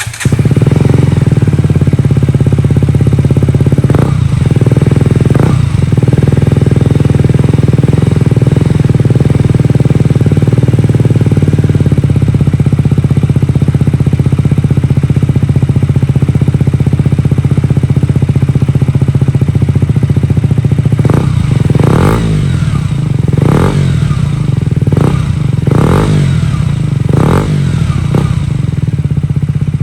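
KTM Duke 125 single-cylinder four-stroke engine idling loudly through an aftermarket Akrapovic-style exhaust, with two short throttle blips about four and five seconds in and then a run of about six quick blips near the end.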